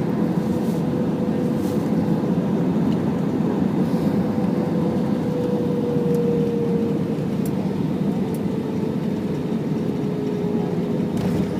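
Steady cabin noise of an Airbus A320 in flight on approach: jet engines and rushing air with a steady hum whose pitch drops slightly about halfway through.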